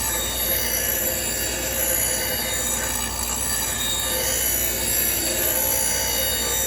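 Power grinder grinding the cutting edge of a steel lawnmower blade: a steady metallic squeal and whine that runs without a break.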